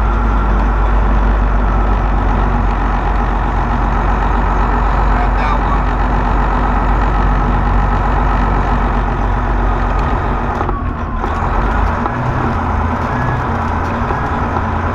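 Semi truck's diesel engine running steadily at low speed, heard from inside the cab, with a deep even rumble.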